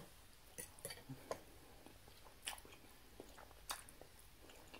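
Faint chewing of a mouthful of lasagna, with a few short clicks now and then.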